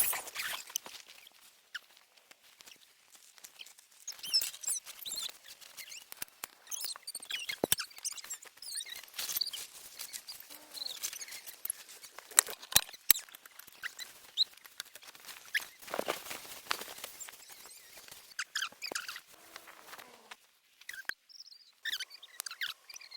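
Camping gear being handled during camp setup: irregular rustling broken by many sharp clicks and knocks.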